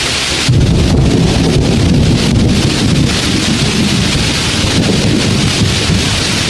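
Heavy rain falling in a steady hiss, with a low rumble of thunder setting in about half a second in and rolling on.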